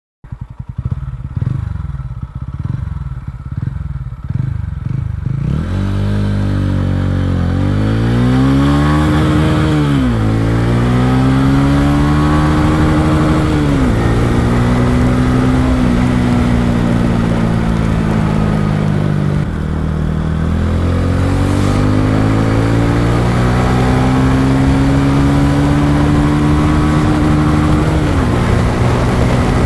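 TVS Ronin's single-cylinder engine idling with slow, separate firing pulses, then pulling away under acceleration. The engine pitch climbs and drops sharply three or four times as it shifts up, then climbs more slowly and steadily.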